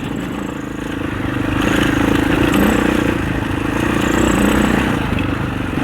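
Husaberg 650 single-cylinder four-stroke enduro dirt bike engine under way on a rough trail. The revs rise about a second and a half in, swell twice as the throttle is worked, and ease near the end.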